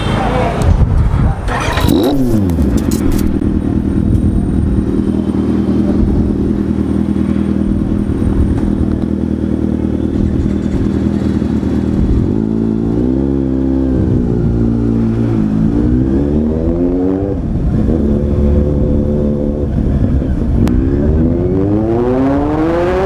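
Kawasaki Z800's inline-four engine through an SC-Project exhaust, running steadily, then revving up and down in several rising pulls over the second half.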